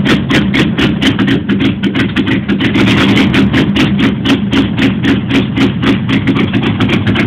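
1989 Jeep Grand Wagoneer's AMC 360 V8 idling, with a sharp, even ticking about five or six times a second over the low running.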